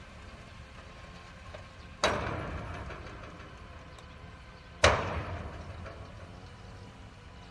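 Two heavy crashing impacts about three seconds apart, each ringing out and fading over about a second, over a low steady rumble.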